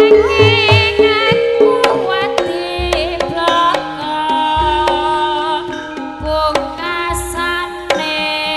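Music played loud through a hired PA sound system during a sound check: a singer with a wavering, vibrato-laden voice over sustained instrument tones, sharp hand-drum strokes and deep bass thumps.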